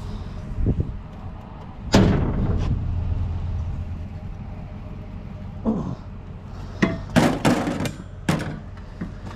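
A loud bang about two seconds in that rings and dies away slowly, then a run of sharp knocks and clanks later on, over a steady low hum.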